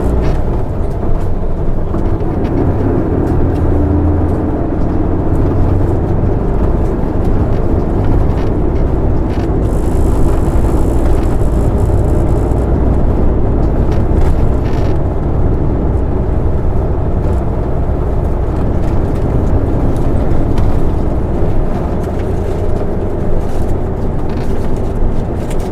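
Interior running sound of an Isuzu Erga city bus under way: the diesel engine and drivetrain run steadily, with road noise, heard from inside the cabin.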